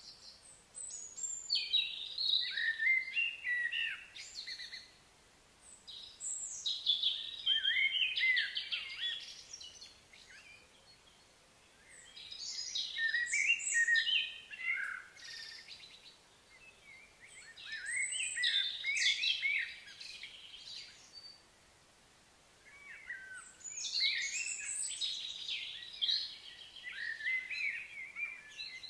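A bird singing in repeated bouts of fast, varied chirps and warbles, each bout a few seconds long, separated by short pauses, five bouts in all.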